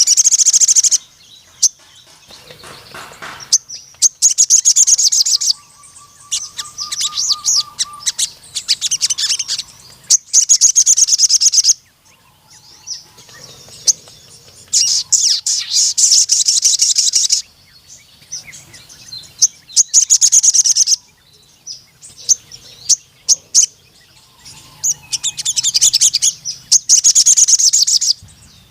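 A sogon sunbird singing at full tilt: repeated long bursts of rapid, high, twittering chirps and trills, one after another with short pauses between.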